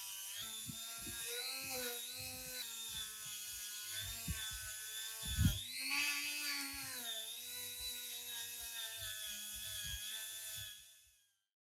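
A small electric power tool's motor whines, its pitch dipping and recovering as it is pressed into the work, with scattered knocks beneath, the strongest about halfway through. The sound fades out just before the end.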